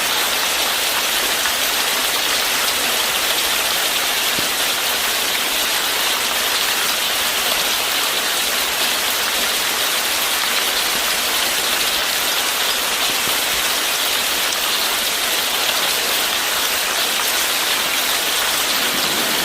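Steady rushing hiss of water, like rain or running water, unbroken throughout.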